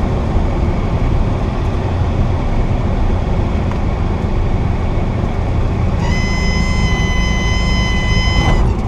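Cessna 172 cabin drone from the engine and propeller. About six seconds in, a steady high-pitched warning tone sounds for about two and a half seconds and then cuts off: the stall warning horn, as airspeed gets low.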